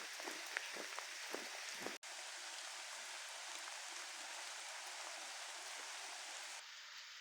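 Rain falling: separate drops land close by for about two seconds, then, after an abrupt cut, a steady even hiss of rain or running water, slightly quieter near the end.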